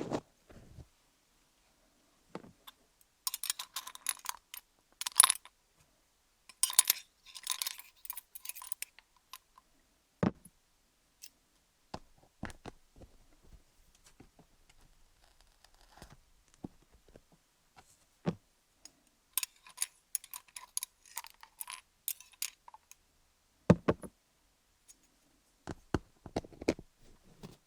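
Pointed wooden sticks scratching and tapping over a rhinestone-covered binaural dummy-head microphone: three runs of quick crackly scratching, with single sharp clicks and taps scattered between them and quiet gaps in between.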